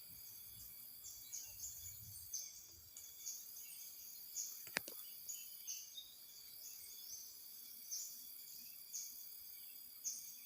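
Forest ambience: insects drone steadily on several high pitches, and short high chirps repeat irregularly, one or two a second. A single sharp click comes about halfway through.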